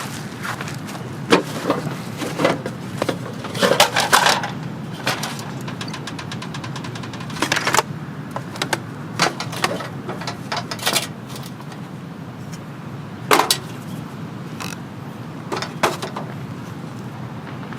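Steady rain noise with scattered sharp taps and knocks, a few of them louder.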